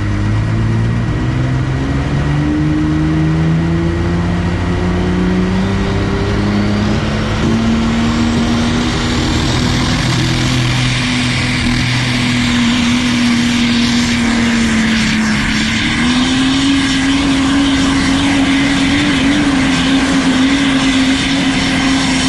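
Modified pulling truck's engine at full throttle under load on a sled pull. The pitch climbs steadily for several seconds, then holds high with a brief dip about two-thirds of the way through, and falls away near the end as the run ends.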